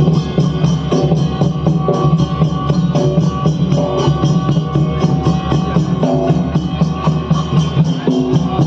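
Odia Danda Nacha folk music without singing: fast, steady drumming, several strokes a second, under a melody line.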